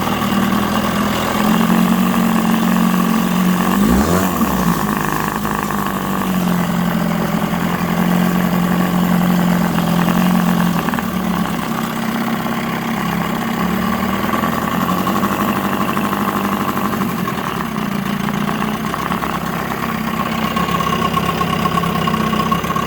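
Freshly rebuilt 1987 Evinrude 8 hp two-stroke twin outboard motor running steadily at low speed, with a short rise and fall in engine pitch about four seconds in.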